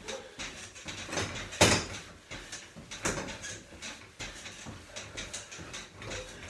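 Mini trampoline being bounced on: repeated thuds and spring creaks about twice a second, with one louder thud about one and a half seconds in.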